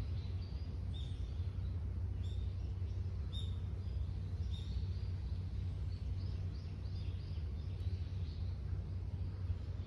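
Small birds calling: short high chirps about once a second, then a quicker run of chirps in the second half, over a steady low rumble.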